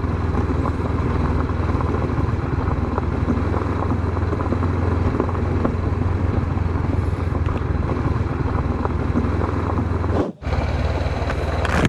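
Honda CB500X's parallel-twin engine running steadily at low speed on a gravel road, with a crackle of tyres on loose stones. The sound cuts out briefly near the end, then resumes.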